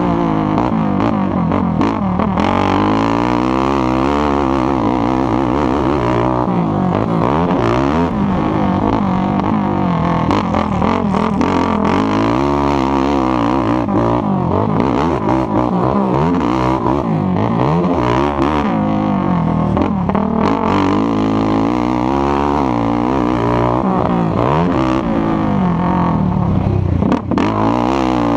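Racing ATV engine running hard and loud, its pitch climbing and dropping over and over as the throttle opens and closes.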